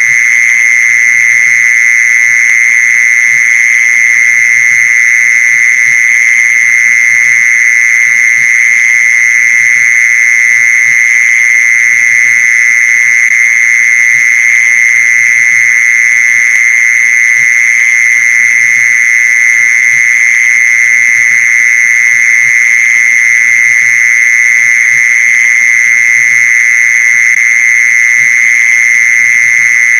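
Mole cricket calling: a continuous, unbroken high trill pitched near 2 kHz, holding steady without pause.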